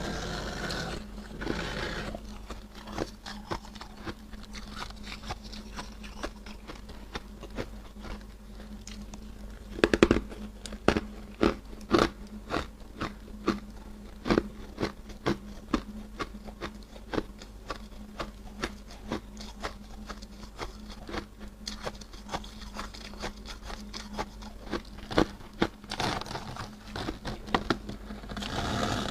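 Freezer frost being bitten and chewed: a long run of crisp, closely spaced crunches, with the loudest bites around ten to twelve seconds in.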